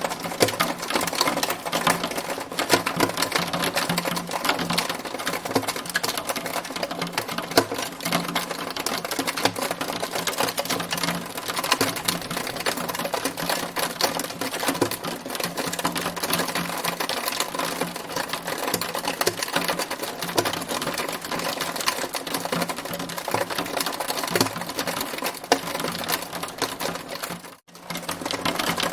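Hailstones striking a hard surface in a dense, unbroken stream of sharp ticks, cutting out for an instant near the end.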